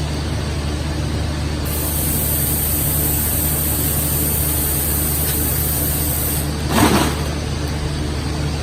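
ABS/HIPS plastic sheet extrusion line running: a steady machine hum. A high hiss joins in about two seconds in and stops suddenly around six and a half seconds, and a brief rushing noise rises near seven seconds.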